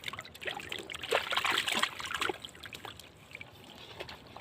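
Shallow water splashing and trickling, with a denser burst of splashing about a second in.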